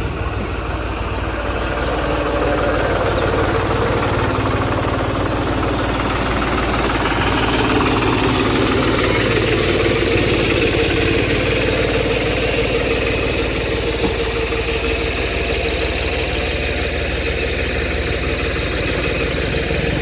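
Farm machine engine running steadily at an even speed.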